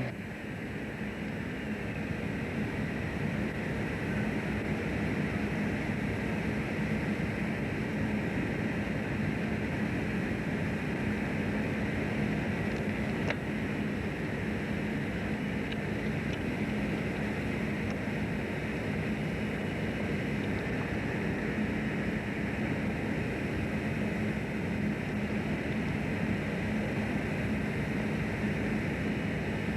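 Fishing boat's engine running steadily on board: a constant drone with a steady hum and a broad hiss.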